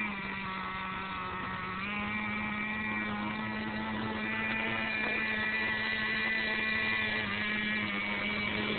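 Small nitro (glow) engine of a radio-controlled monster truck running steadily with an even, fairly high-pitched hum. The pitch steps up slightly about two seconds in.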